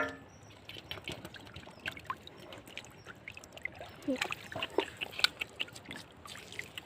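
Shallow floodwater splashing and trickling, with many small irregular splashes and drips, and a brief rising call about four seconds in.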